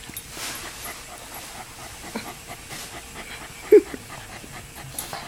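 Dog panting rapidly up close, with one short squeaky sound a little before the end.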